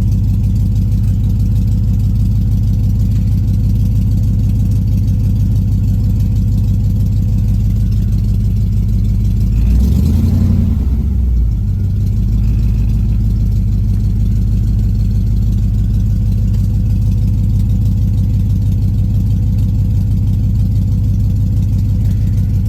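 Swapped-in 5.3 LS V8 in a 1983 Pontiac Firebird idling steadily as it warms up after a cold start in sub-zero weather. About ten seconds in, the engine note briefly rises, then settles back to idle.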